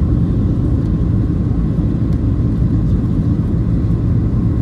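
Steady low rumble of a Boeing 737 heard from inside the passenger cabin: engine and airflow noise, with a faint steady tone above it.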